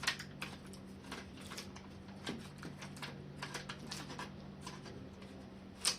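Scattered light clicks and taps of hands handling the plastic parts and cable connectors of an opened laptop, with a sharper click near the end, over a low steady hum.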